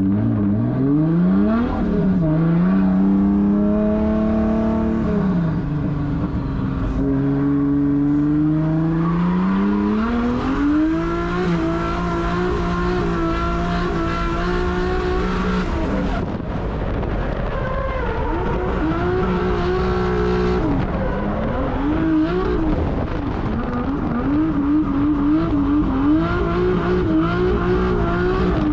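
1.5JZ inline-six in a drift car revving hard under throttle. Its pitch climbs and drops with throttle and gear changes, holds high for several seconds in the middle, and flickers quickly up and down near the end.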